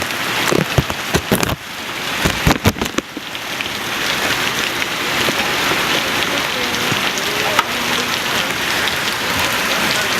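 Steady heavy rain falling, with a cluster of sharp knocks in the first three seconds.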